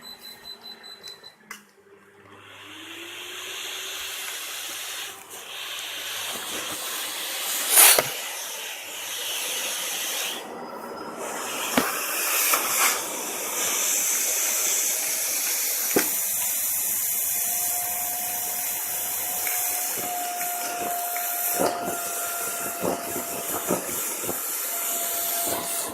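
Vacuum cleaner running over carpet: a steady, high-pitched rushing suction that swells up about two seconds in and then holds, with a few sharp knocks and clicks as the head is pushed about, the loudest about eight seconds in.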